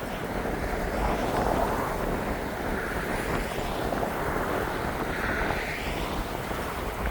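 Gale-force wind, a steady roar with gusts buffeting the microphone.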